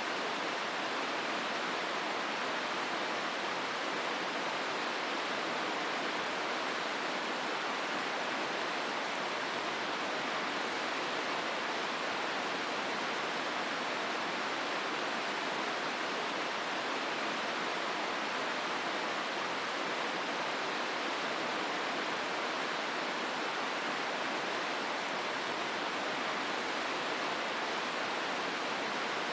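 Steady rushing of the Hozu River's water through the gorge, an even and unbroken hiss.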